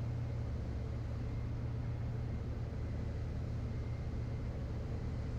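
Steady drone of a Van's RV-12 light aircraft's engine and propeller heard inside the cockpit, a low even hum with no change in power.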